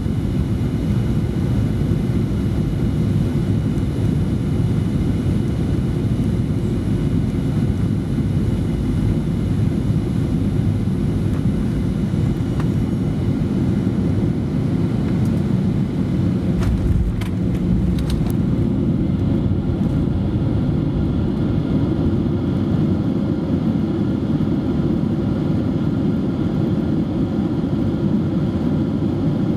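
Cabin noise inside a Boeing 737-800 on approach: its CFM56-7B engines and the airflow make a steady deep rumble with faint steady whining tones above it. A few sharp clicks and a low thump come about 17 seconds in.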